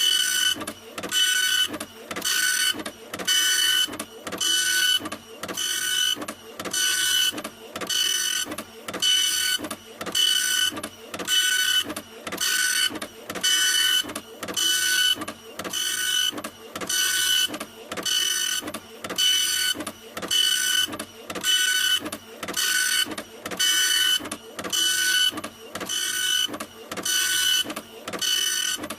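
A printer running in a steady repeating cycle, about one pass a second: each pass a high whine of the moving mechanism, broken by short pauses between passes.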